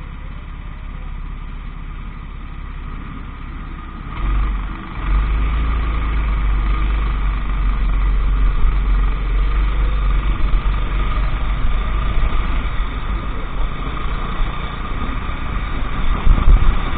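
Go-kart engine idling, then at about four seconds it gets much louder as the kart pulls away and the engine runs under load.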